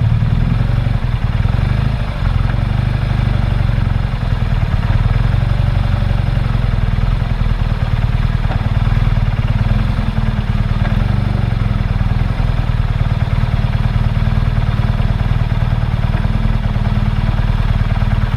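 Motorcycle engine running steadily at low speed, a constant low drone heard from a camera mounted on the moving bike.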